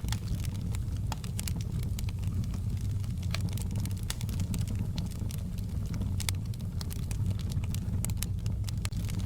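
Wood fire in a fireplace crackling: irregular sharp pops and crackles over a steady low rumble.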